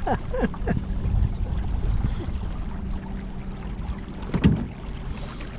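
Steady low hum of a small battery-powered motor under wind and water noise. There are a few short splashes or knocks in the first second and a sharp, louder knock at about four and a half seconds.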